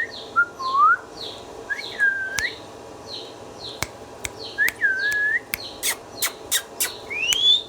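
Pet Indian ringneck parrot whistling: several swooping whistled notes, with short repeated chirps between them and a quick run of sharp clicks near the end.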